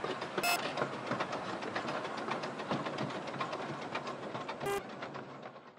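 Miniature narrow-gauge train running along the track, heard from on board: a steady rattle and rumble with rapid wheel clicks. There are two brief shrill squeaks, one about half a second in and one near the end, and the sound fades out at the close.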